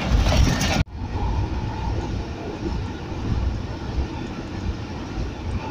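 Running noise of a moving train heard from on board: a steady low rumble. In the first second there is louder, denser noise from a freight train of tank wagons passing alongside, which cuts off suddenly.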